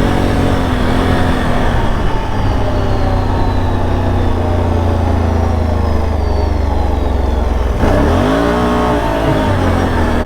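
Can-Am Outlander ATV engine running at a steady pace, then revved up and down in quick surges near the end.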